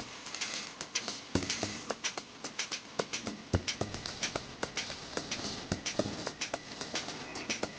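A rapid, irregular series of sharp clicks and taps, several a second, with a few heavier knocks.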